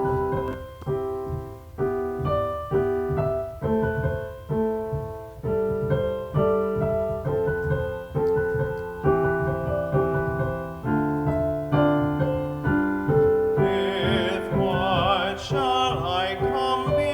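Piano playing a slow introduction of chords, each struck and left to fade. Near the end a singer with vibrato comes in over the piano, starting a sung hymn.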